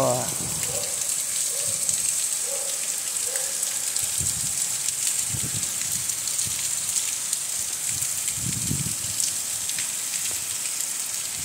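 Heavy rain falling steadily, a dense, even hiss, with a couple of low gusts of wind about halfway through and again later.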